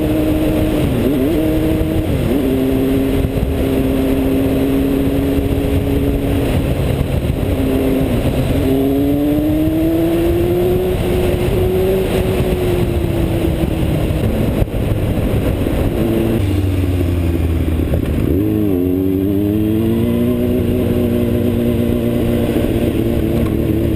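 Motorcycle engine running under way, its pitch holding steady, then dipping and climbing again several times with throttle and gear changes, over a dense rush of wind and road noise.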